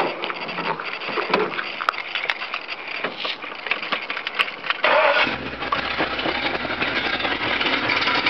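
A few clicks and knocks, then about five seconds in the 1976 Ford Bronco's 351 Windsor V8 fires and settles into a steady idle through a 2-into-1 exhaust with a Magnaflow three-chamber muffler.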